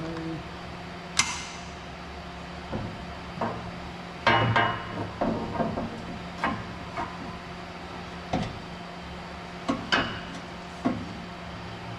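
Scattered metal knocks and clanks, about a dozen, from steel exhaust pipe sections being handled and seated into place. The loudest comes about a second in, with a cluster just past four seconds. A steady low hum runs underneath.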